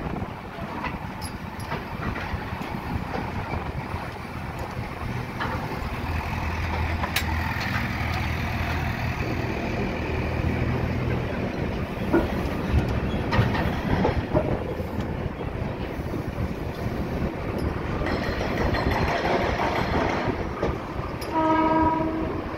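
Passenger train rolling slowly into a station, heard from the moving coach: a steady rumble of wheels on rail with a few clicks over the rail joints, and a short horn note near the end.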